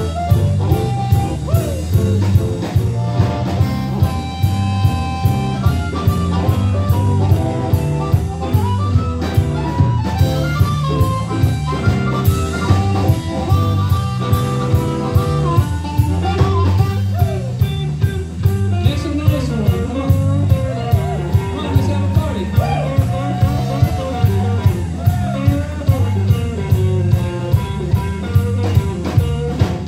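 A live blues-rock band playing an instrumental passage: a guitar lead with bent, sliding notes over bass and a drum kit keeping a steady beat.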